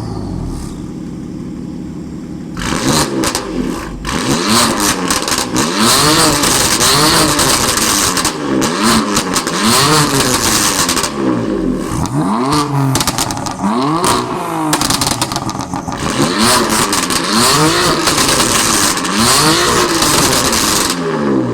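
BMW S55 twin-turbo straight-six, fitted with downpipes and a burble tune, being blipped repeatedly from idle: the revs settle at first, then a sharp rev about every two seconds from a couple of seconds in. Each rev falls back with a rapid crackle and popping from the exhaust, the tuned burbles.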